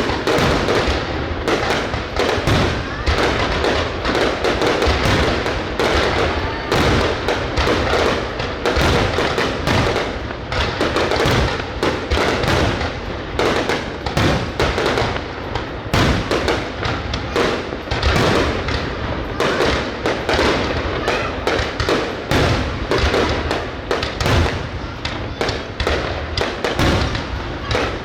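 Fireworks going off in dense, overlapping succession: a continuous barrage of bangs, thuds and crackling bursts, many per second, with no pause.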